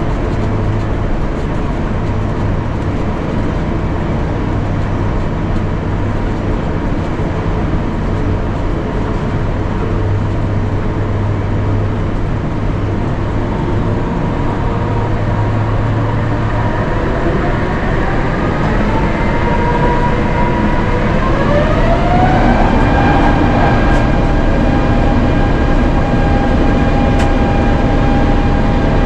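Airbus A350-900's Rolls-Royce Trent XWB engines heard from inside the cabin, running steadily at low power over a cabin rumble. About two-thirds of the way through they spool up for takeoff, with a rising whine over several seconds, and then hold at a higher, louder pitch at takeoff thrust.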